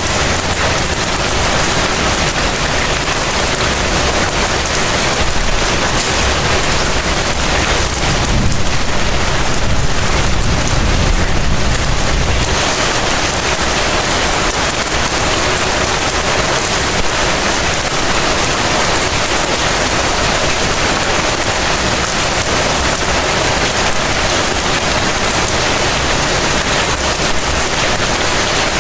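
Heavy rain falling steadily. A low rumble swells for a few seconds about a third of the way through.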